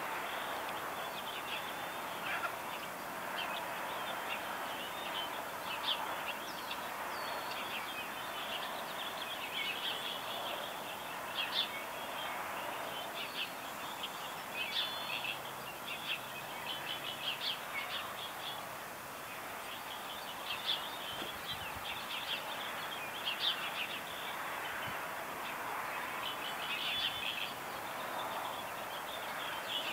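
Several birds chirping and singing at dawn, short calls coming all the while, over a steady background hiss.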